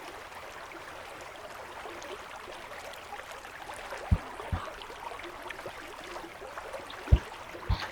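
Steady rush of a river flowing over rocks, with a few soft low thumps in the second half, twice in quick pairs.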